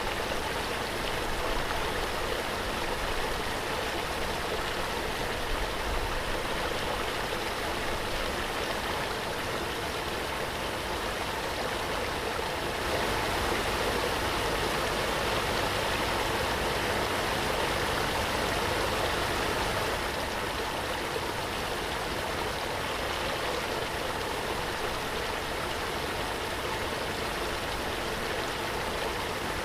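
Waterfall: a steady, even rush of falling water, a little louder for several seconds in the middle.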